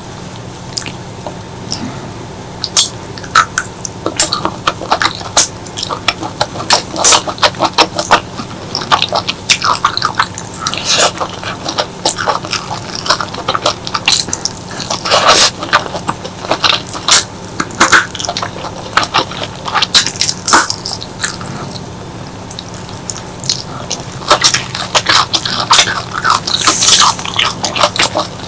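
Close-miked eating sounds: wet, irregular clicks and smacks of chewing and slurping clams coated in chili paste.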